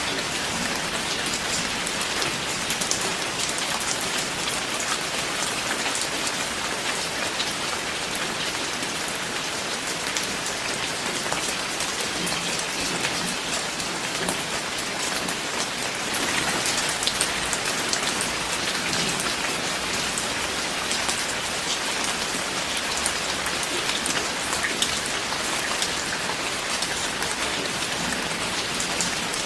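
Steady heavy rain, a dense even hiss dotted with the ticks of individual drops striking a surface, swelling slightly about halfway through.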